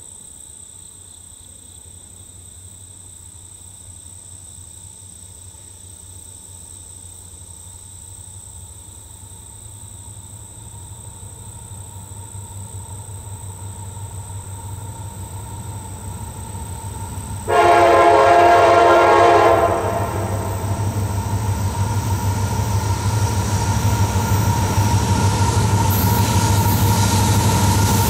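Approaching CSX freight train led by EMD diesel locomotives: the engines' low rumble grows steadily louder. About two-thirds of the way in the locomotive horn sounds one blast of about two seconds, a chord of several notes and the loudest sound, after which the rumble keeps building as the train nears.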